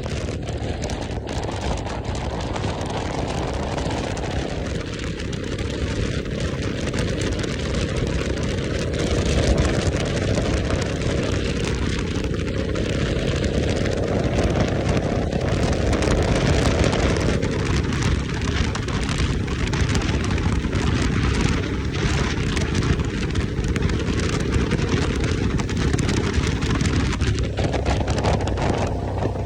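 Motorcycle on the move: wind rushing over the microphone with the engine running underneath, the noise swelling and easing a few times as the speed changes.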